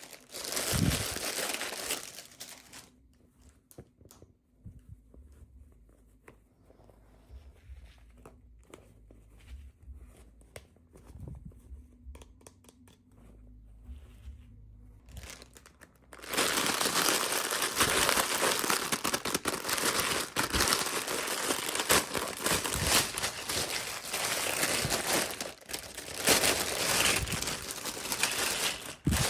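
Toy packaging being crinkled and torn open by hand. A burst of rustling comes at the start, then several seconds of quieter small clicks and handling, and then loud, continuous crinkling from a little past the middle on.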